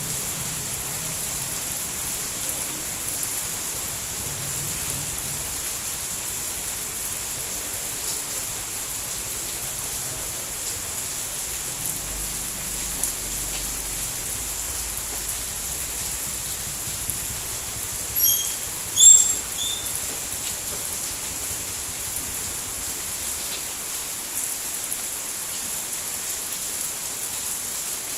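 Steady rain falling, an even hiss. About two-thirds of the way through, two brief high-pitched chirps stand out above it.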